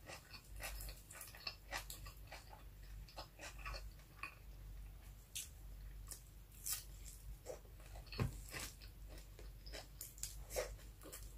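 Close-miked eating sounds: chewing with irregular soft smacks and clicks from a mouthful of rice and fried milkfish eaten by hand.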